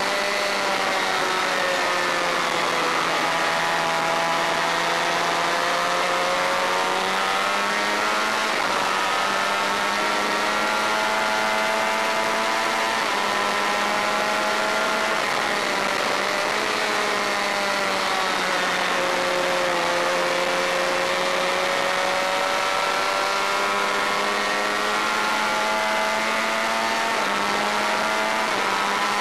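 Honda VFR400's V4 engine at racing revs, heard from on the bike. Its pitch repeatedly climbs and falls as the bike accelerates and slows through the corners.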